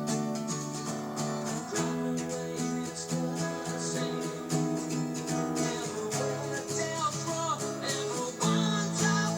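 Acoustic guitar strummed in a steady rhythm, changing chords about every two seconds, with a melody line running above the chords.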